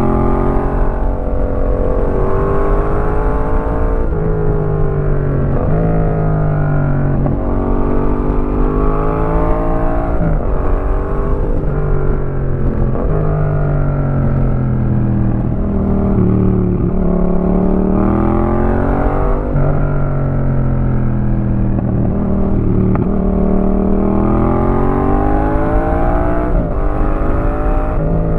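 Yamaha MT-07's parallel-twin engine through an aftermarket Roadsitalia exhaust while riding. The revs climb and fall again and again, with sudden drops in pitch every few seconds as the gears change.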